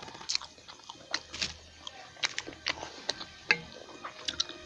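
Close-up chewing of food, with irregular wet mouth clicks and smacks.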